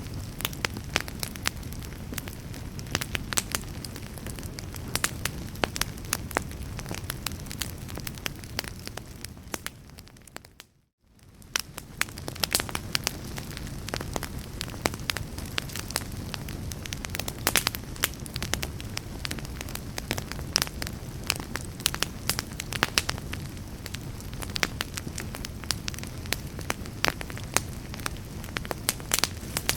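Wood fire crackling, with frequent sharp pops and snaps over a low steady rumble. About ten seconds in the sound fades out to near silence and fades back up a second later.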